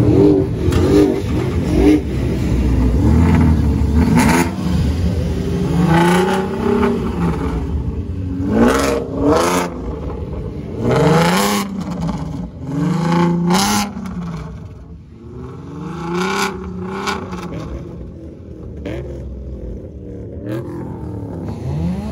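Several car engines revving at once, with repeated throttle blips that rise and fall in pitch and overlap one another.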